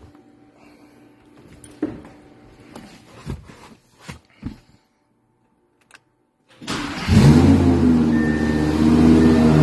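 Twin-turbocharged Audi R8 V10 engine starting for the first time after a SheepeyRace turbo kit install: it fires up suddenly about two-thirds of the way in and keeps running steadily. A few faint clicks and knocks come before it.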